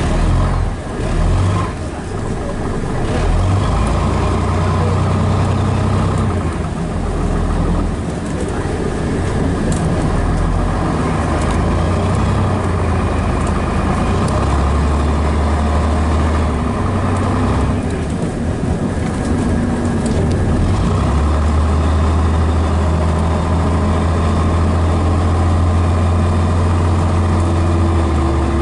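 Scania DS11 diesel engine of a Scania BR111DH / MCW Metropolitan double-decker bus running, its low drone shifting in pitch several times as engine speed changes.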